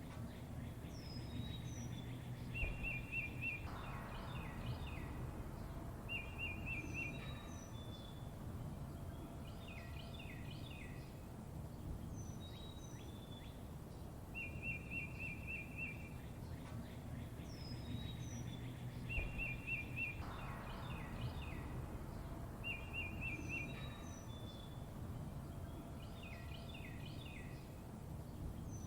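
Several songbirds chirping: short fast trills, high downward whistles and clusters of quick notes, over a steady low background rumble. The same sequence of calls repeats about every fourteen and a half seconds, as a loop.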